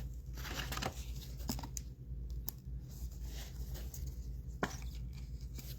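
Trading cards and pack wrappers being handled: scattered light clicks and short rustles over a steady low hum.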